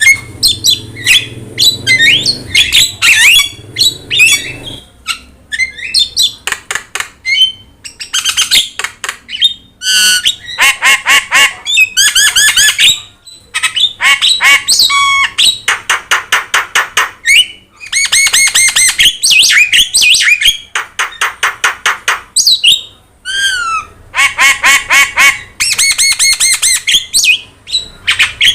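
Javan myna (jalak kebo) singing hard, a chatter of fast runs of harsh, squawky notes mixed with short whistles, in bouts of a second or two with brief pauses between.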